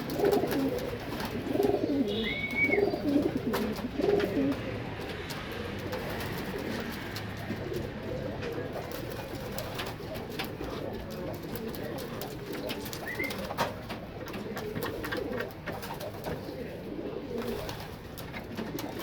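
Domestic pigeons cooing in a loft, loudest in the first few seconds and softer afterwards. A couple of short high squeaks and scattered faint clicks come through as well.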